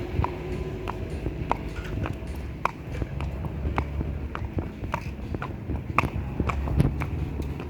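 Horse walking, its hooves clip-clopping in an uneven run of sharp knocks, a few a second, over a low steady rumble.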